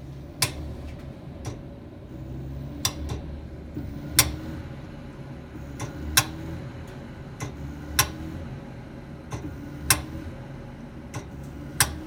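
Gas pipes and meter making sharp, irregular clicks, about one or two a second, over the low hum of a gas furnace whose fan surges and fades. The owner takes the furnace to be starved for gas.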